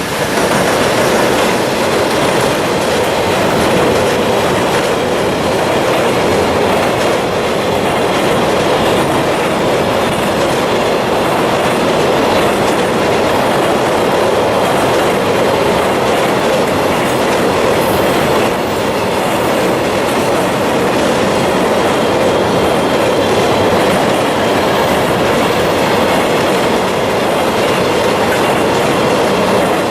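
A JR Freight container train running at speed over a steel railway bridge. The wagons' wheels make a loud, steady rumble with rail-joint clatter that goes on without a break.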